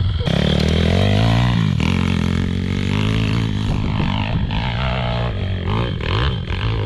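Pit bike engine running and being revved, its pitch rising and falling in the first couple of seconds, then holding steadier.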